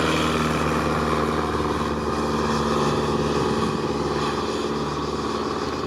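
Light aircraft's propeller engine running steadily at a constant pitch, cutting off abruptly at the end.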